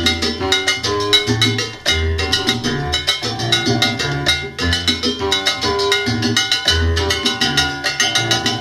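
Instrumental passage of a 1970s salsa record, with no singing: dense Latin percussion and a bass line pulsing about once a second under a repeating melodic figure.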